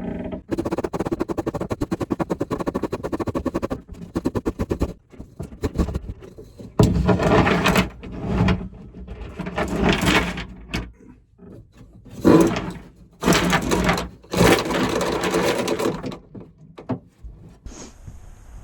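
Anchor rode being fed down through the deck hole into the chain locker: a fast run of rattling clicks for the first few seconds, then several shorter rattling bursts as more is pushed through.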